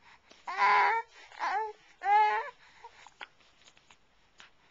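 Baby making three short pitched vocal noises, about half a second each, in quick succession, followed by a few faint clicks.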